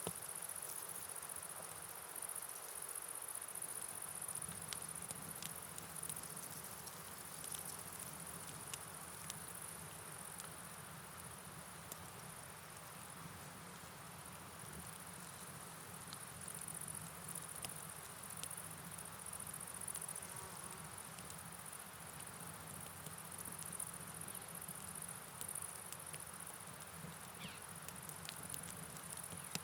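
Night ambience: crickets chirring steadily at a high pitch over a faint steady hiss of rain and running water, with scattered small ticks of drops.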